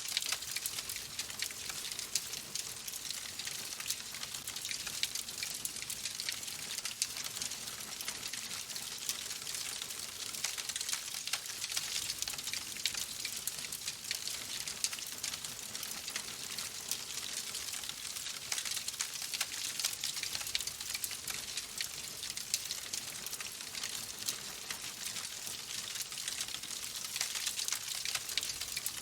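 Fireplace fire crackling: a steady hiss dotted with many small, irregular pops and crackles.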